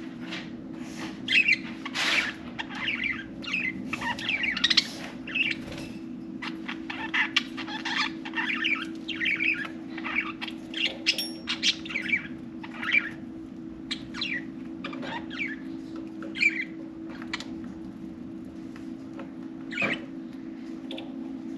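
Budgerigars chirping and chattering in quick, overlapping calls, thinning out to an odd call over the last few seconds, over a steady low hum.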